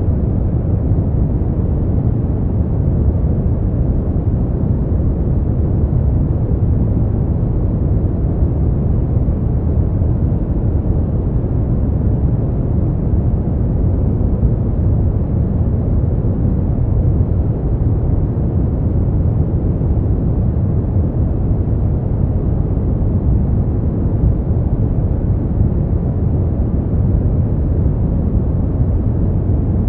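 Steady brown noise: a deep, even rushing hiss strongest in the low end and fading toward the highs, unchanging throughout.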